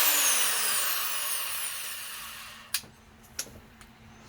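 Power drill run briefly and then coasting down, its whine falling in pitch and fading over about two and a half seconds. A few light clicks follow.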